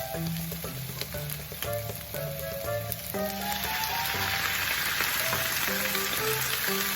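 Food sizzling and crackling as it fries in a pan, the sizzle swelling noticeably about halfway through, over soft background music.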